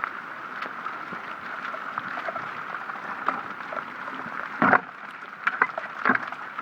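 Rainwater runoff running and gurgling steadily from a small yard drainage system that is not capturing it. A few sharp taps come in the second half, the loudest about two-thirds of the way in.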